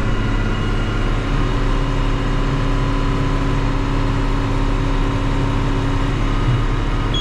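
Tractor engine running steadily under load, pulling a Kuhn round baler as it picks up and rolls hay.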